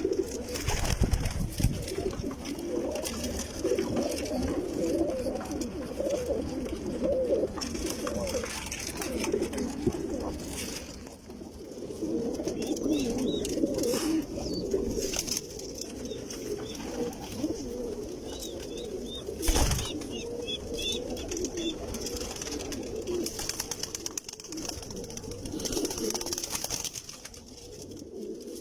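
Domestic pigeons cooing continuously, low overlapping coos, with a single sharp knock about two-thirds of the way through.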